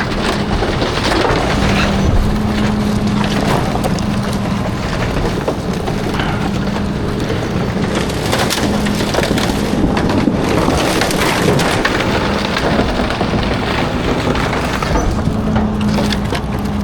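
Garbage truck compactor crushing bulky waste, with wood cracking and splintering over a steady hum from the truck's engine and hydraulics.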